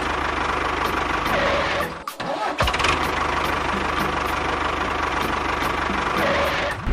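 Small engine running steadily. It drops out briefly about two seconds in, then runs on again.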